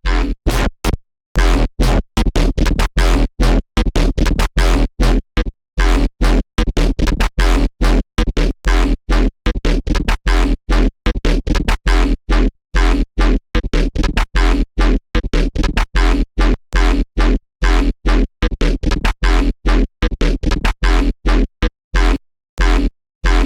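Serum wavetable synthesizer patch playing rapid, chopped notes over a heavy sub-bass, cutting in and out several times a second with short silent gaps.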